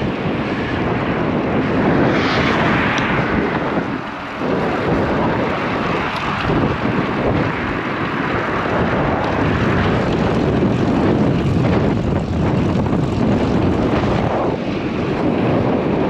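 Strong headwind buffeting the microphone of a bicycle-mounted camera: a loud, gusty roar that eases briefly about four seconds in.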